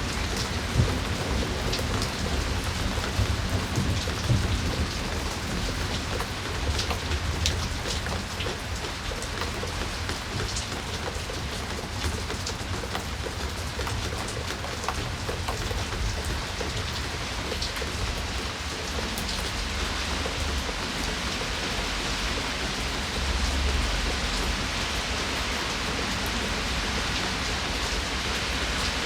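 Steady rain falling, with single drops tapping close by over the even hiss and a low rumble underneath.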